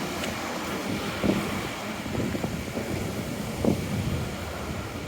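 City street noise: a steady rush of traffic with wind on the microphone, and a few faint knocks.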